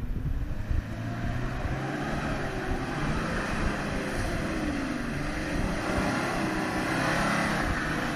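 Four-wheel-drive wagon's engine working as it climbs a rutted dirt track, revs rising and falling, getting a little louder as it approaches.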